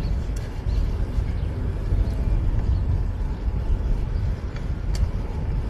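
Wind rumble on a bike-mounted action camera's microphone while riding a fixed-gear bike, mixed with street traffic noise, with a faint click about five seconds in.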